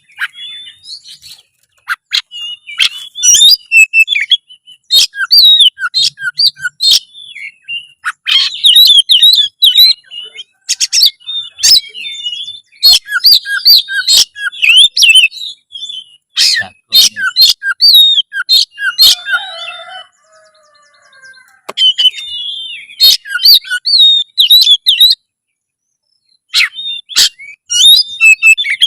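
Oriental magpie-robin (kacer) singing a loud, varied territorial fighting song: rapid runs of whistles, sharp clicking notes and short repeated falling notes, in bursts with a couple of brief pauses in the later part.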